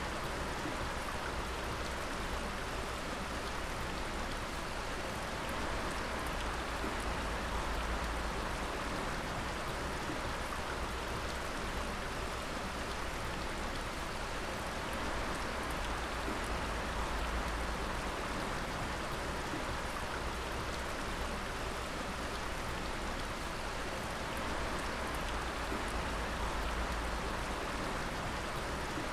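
Water dripping and pattering steadily onto wet surfaces, a dense even splashing like rain, with a faint stream running under it.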